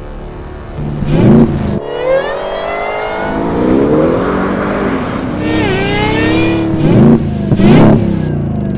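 Supercharged V8 of a Hennessey VelociRaptor 1000 Ford Raptor R revving hard. There are sharp blips about a second in and again near the end, with longer rises and falls in engine pitch in between.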